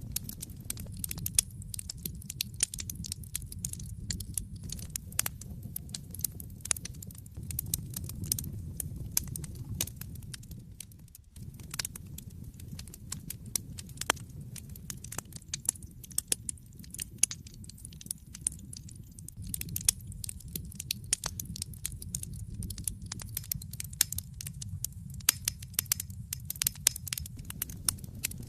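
Wood fire in a fireplace, logs crackling and popping in dense irregular snaps over a steady low rumble of the flames. The sound dips briefly about eleven seconds in, then resumes.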